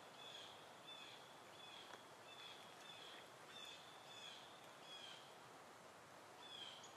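A bird calling faintly, a short high chirp repeated about twice a second, over a quiet hiss.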